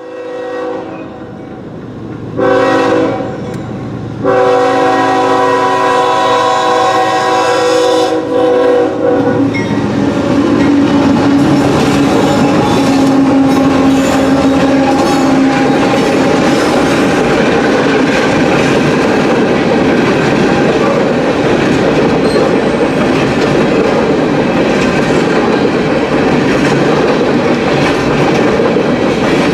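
Train horn on an empty coal train: a short blast about two seconds in, then a long blast lasting about five seconds. After that the train passes, and the empty coal cars roll by with a steady rumble and clatter on the rails.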